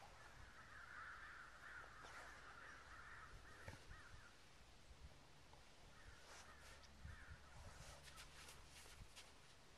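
Faint bird calls in two stretches, one during the first few seconds and one again about six seconds in, with a few light clicks over near silence.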